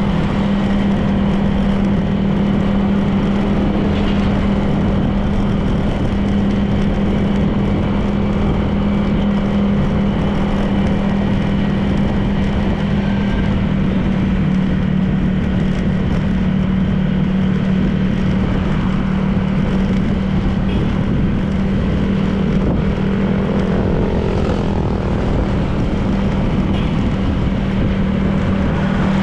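Honda PCX 160 scooter's single-cylinder engine running at a steady cruising speed, one constant low tone, with wind and road noise over it.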